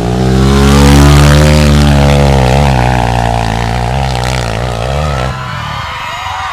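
Trail motorcycle engine revving hard on a steep uphill climb, its pitch rising over the first second, then wavering up and down with the throttle before dropping away abruptly about five seconds in.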